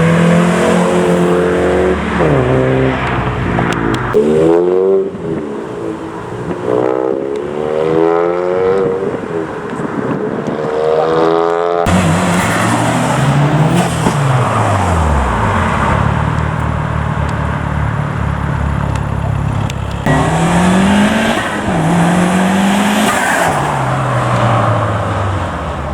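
Modified Japanese cars accelerating away one after another, engines revving hard with the pitch climbing and dropping at each gear change. Near the middle a car's engine note falls steeply as it passes and eases off, and later another climbs through its gears.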